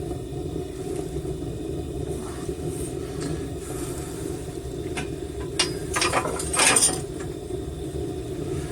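Propane furnace burner running with a steady low rush. About five seconds in, metal clinks and clatters several times over roughly two seconds, the loudest part.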